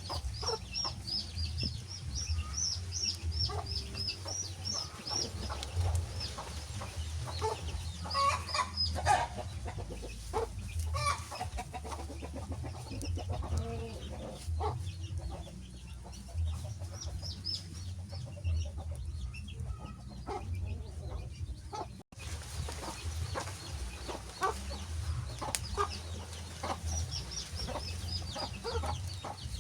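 Birds calling in runs of short, high chirps, with a few lower clucking calls about a third of the way in, over a steady low rumble. The sound cuts out for an instant past the middle.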